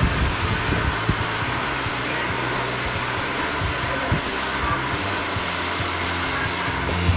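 Hand-held hair dryer blowing steadily on hair.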